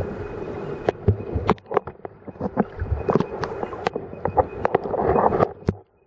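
Water splashing and sloshing close to the microphone as a swimmer moves, with many sharp knocks and clicks; it drops away abruptly near the end.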